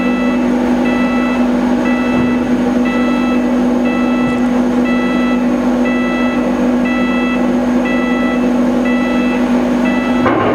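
An electronic warning beeper sounding over and over at an even pace, over a steady low machinery hum.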